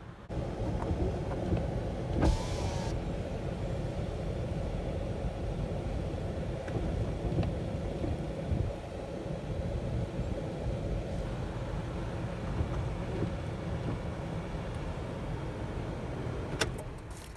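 A motor vehicle's engine running steadily with a steady hum, and a short hiss about two seconds in. It starts and stops abruptly.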